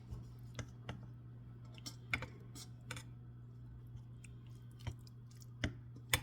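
Irregular clicks and light knocks of a utensil against a pan as cooked rotini pasta is added and stirred in, the sharpest near the end, over a steady low hum.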